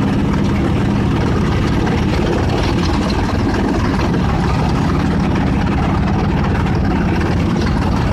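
Chaff cutter running steadily, a continuous engine-like drone.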